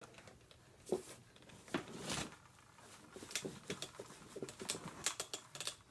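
Scattered light taps and clicks, irregular and close together, with a few brief squeaks about a second in and again around two seconds.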